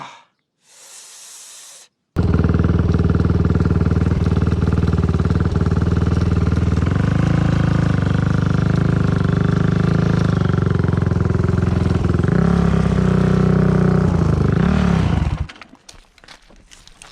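Dirt bike engine running steadily at idle, with small blips of the throttle near the end, then it stops suddenly. A brief burst of hiss comes just before it starts.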